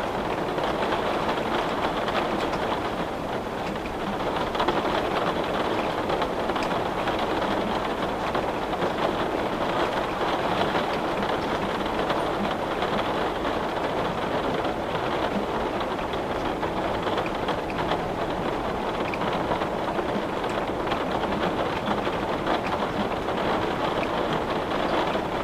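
Steady rain: an even hiss of falling drops with scattered faint ticks.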